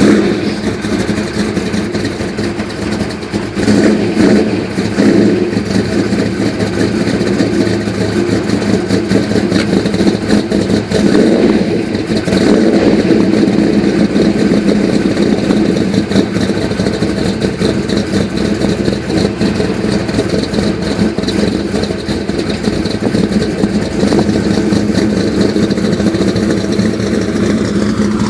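Exhaust of a custom 1964 Chevrolet Impala's cammed V8 idling with a lope, with a few blips of the throttle early on and about halfway through.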